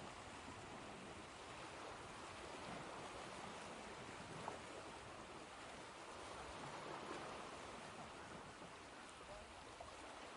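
Faint, steady rushing of ocean surf with no distinct swells, and a few faint short chirps over it.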